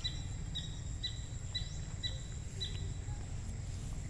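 A bird chirping repeatedly, about two short chirps a second, stopping a little more than halfway through. A steady low rumble runs underneath, with a faint steady high whine like an insect.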